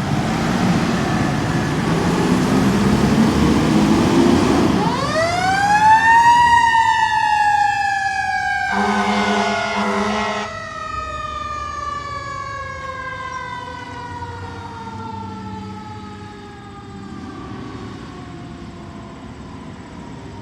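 Fire engine pulling away on a call: the diesel engine runs loud for the first few seconds, then a mechanical siren winds up fast and slowly coasts down in pitch to the end. An air horn blasts for about two seconds in the middle.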